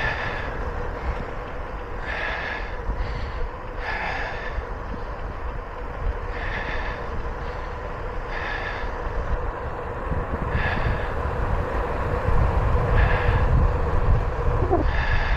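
A cyclist breathing hard, with about one breath every two seconds, over low wind and tyre rumble from riding.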